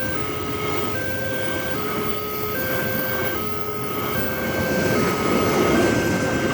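Railway level-crossing warning alarm sounding, two electronic tones alternating high and low about every 0.8 s. Underneath is the rumble of a passing train, which swells near the end.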